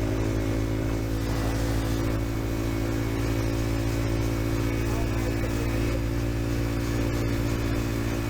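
Dirt bike engine running at a steady speed under way, its pitch holding level.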